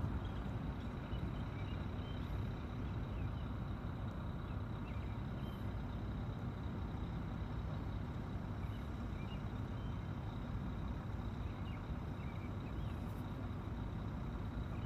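Steady low rumble of urban traffic and city background noise, with faint short high chirps scattered throughout.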